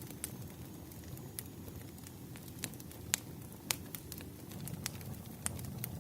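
Wood fire in a fireplace crackling: irregular sharp pops and snaps over a low, steady rumble of the flames, the loudest pops a little after three seconds in.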